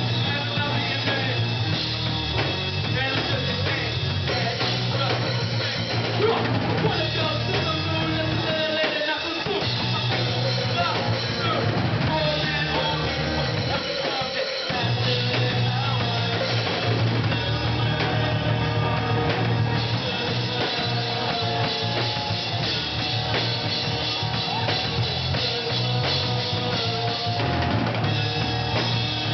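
A live rock band playing, the drum kit prominent over a steady low bass line. The low end drops out briefly twice, about nine and fourteen seconds in.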